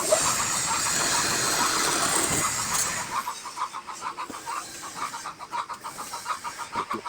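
Wood lathe running with a regular pulsing, about five beats a second, while a turning tool cuts the spinning wood for the first three seconds or so, giving a loud rough hiss that stops when the tool comes off.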